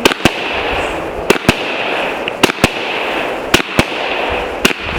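Consumer fireworks going off: sharp bangs in pairs, about one pair a second, over a steady hiss.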